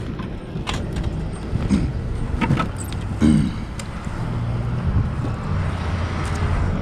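Motor vehicle engines running at the roadside, with a few scattered clicks and knocks; a steady engine hum settles in about four seconds in.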